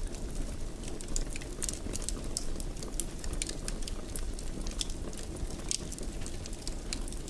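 Wood fire in a fireplace crackling: many small, irregular pops and snaps over a steady low rumble from the burning.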